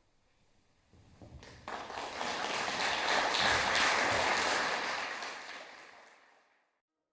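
Audience applauding. It comes in about a second in, swells to full applause, then fades away near the end.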